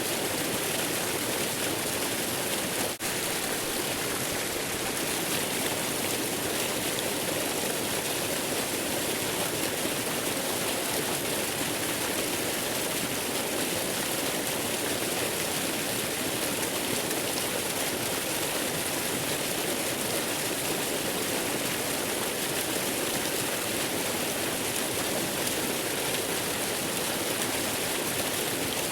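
Steady, even rushing of a waterfall, with one brief dip in level about three seconds in.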